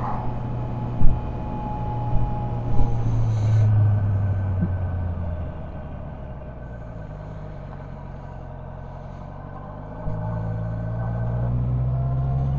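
Honda CB650F's inline-four engine running under way, pulling harder a few seconds in, easing off to a quieter level at about five and a half seconds, then picking up again about ten seconds in. A sharp knock about a second in is the loudest moment.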